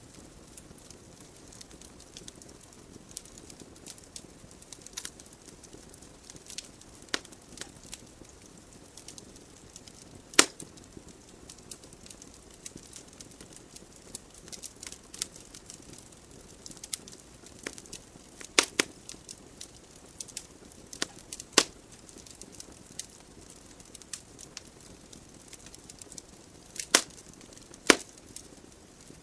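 Wood logs burning in a fireplace: irregular sharp crackles and pops over a faint steady hiss, with a few louder pops scattered through, two of them close together near the end.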